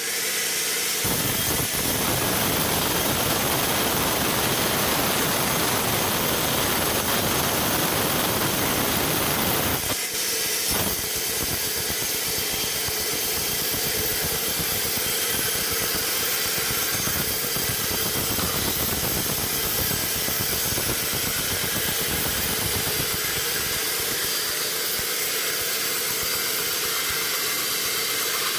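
Sawmill machinery running with a steady engine-driven noise and a hiss. The sound is heavier from about a second in until about ten seconds in, then goes on thinner and hissier.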